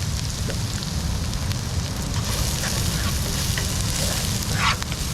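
Food sizzling in a pan on a camp stove, with a few utensil clicks and a short scrape near the end, over wind rumbling on the microphone.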